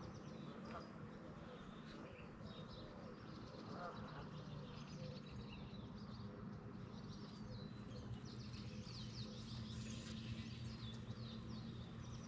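Birds chirping over a steady low hum, with a busy run of chirps in the last few seconds.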